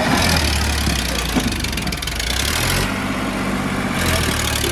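Sonalika 745 DI tractor's diesel engine running steadily, with a noisy hiss above the low engine note.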